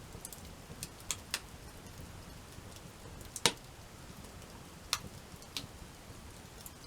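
Wood campfire crackling: sharp pops and snaps at irregular intervals, the loudest about three and a half seconds in, over a low steady background.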